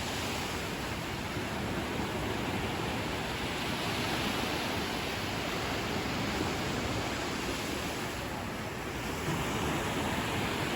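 Ocean surf washing onto the beach: a steady rushing hiss that swells a little twice as waves come in.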